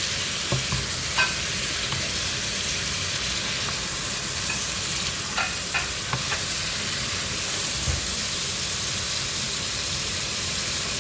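Chicken and zucchini sizzling in a frying pan, with a few scattered clicks and scrapes of a spoon against the pan as the food is stirred slowly.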